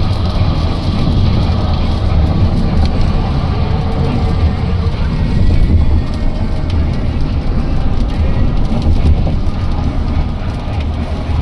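Heavy water drumming on a car, heard from inside the cabin, over a steady low rumble, with many fine ticks.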